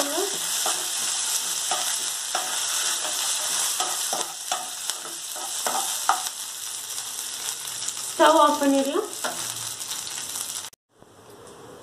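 A tempering of dal, green chillies and curry leaves sizzling in hot oil in a non-stick pan, stirred with a spatula that scrapes and taps against the pan. The sizzle cuts off suddenly near the end.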